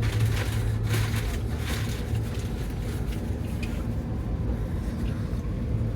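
Steady low rumble and hum of a moving passenger train heard from inside the coach, with a few faint clicks.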